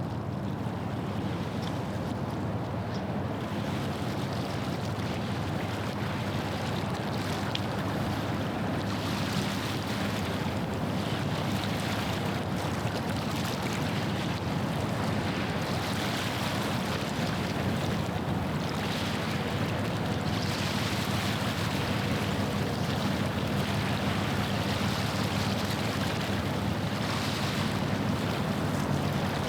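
Low steady drone of a passing ship's engine, with waves washing against the shore in soft repeated surges and some wind. The wash grows louder after about eight seconds.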